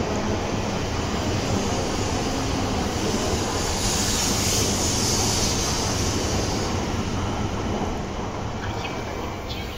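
Shinkansen train moving along the platform: a steady rush of wheel and running noise that peaks about halfway and fades near the end.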